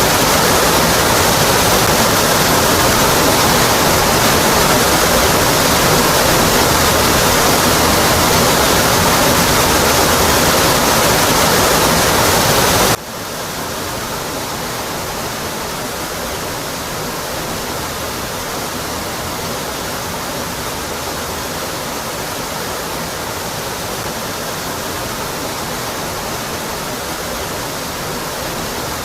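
Waterfall pouring steadily, a full rushing noise. About halfway through it cuts suddenly to a quieter, duller rush of the same falling water.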